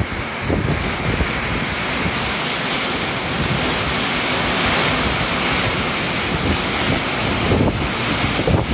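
Strong storm wind and heavy, wind-driven rain making a dense, steady rushing noise that swells a little midway, with gusts buffeting the microphone near the start and again near the end.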